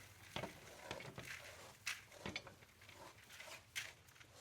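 Cattle feeding at troughs: faint scattered knocks and rustling, with about four sharper knocks over a few seconds.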